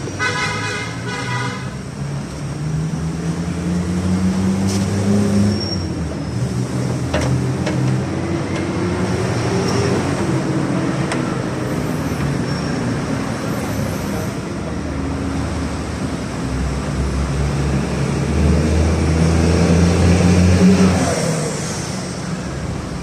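Motor vehicle engines running and passing, their pitch rising and falling, loudest a few seconds before the end. A short pulsing high-pitched tone sounds right at the start.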